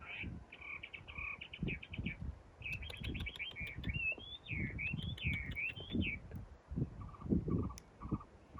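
A small bird singing: a quick series of high chirps, then a warbling run of rising and falling notes for a few seconds, over scattered low thuds.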